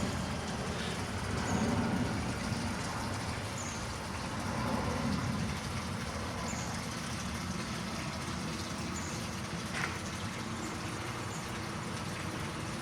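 Jet airliner engine noise dying away after a flyover, a steady broad rumble that eases off slowly. A faint high chirp recurs every two to three seconds.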